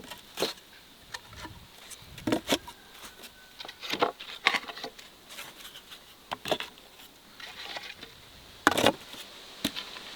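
Irregular short rustles and knocks of handling work, the loudest about nine seconds in, over a faint steady high hum.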